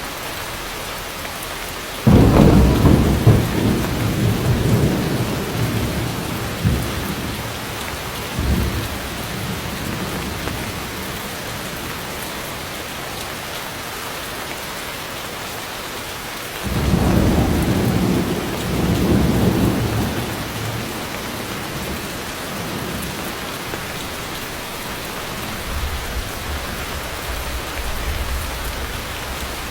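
Heavy rain falling steadily, with thunder. A sudden crack about two seconds in rumbles away over several seconds, a second long rumble comes past the middle, and faint low rumbling sounds near the end.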